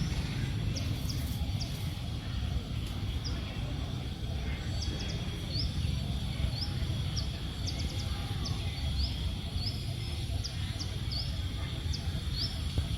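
A small bird chirping over and over in short, high notes at an uneven pace, over a steady low rumble.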